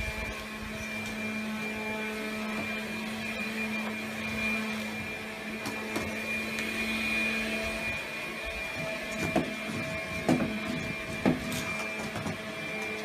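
Vacuum cleaner running with a steady hum and whine. From about eight seconds in, a few sharp knocks come over it.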